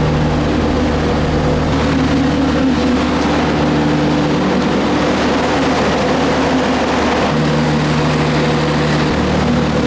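Train's diesel engine idling: a loud, steady low hum with several constant tones.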